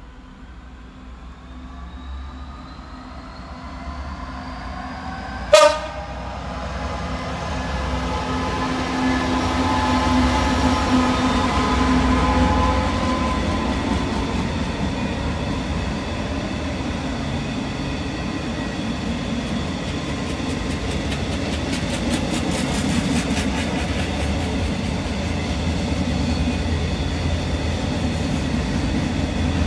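Intermodal container freight train approaching and running through: the locomotive's sound rises as it nears, with one short, loud horn blast about five and a half seconds in. Then a steady rumble and clatter of a long line of container wagons rolling past.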